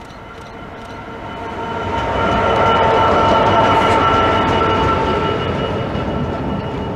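Class 66 diesel-electric freight locomotive, with its two-stroke V12 diesel, passing close by at the head of a freight train. Its engine and the train's running noise grow louder over the first two seconds, stay steady, then ease off slightly.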